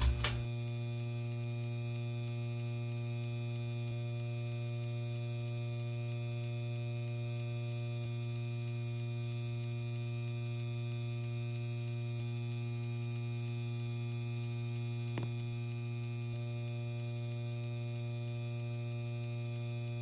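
Lanai ceiling fan running, its motor giving a steady electrical hum, with one faint click about fifteen seconds in.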